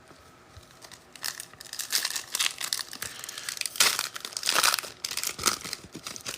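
Trading-card pack wrapper being torn open and crinkled by hand, a run of uneven crinkling bursts from about a second in until near the end.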